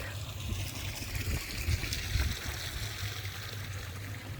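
Steady rain with wind buffeting the microphone in uneven gusts, the rumble swelling a little before halfway through.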